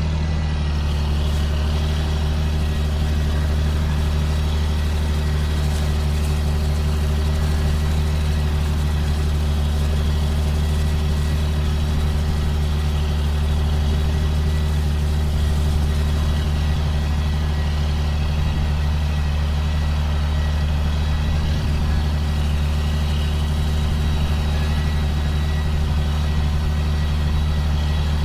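Diesel engine of a 2005 John Deere self-propelled sprayer running steadily at work, a constant low drone with a faint steady high whine over it.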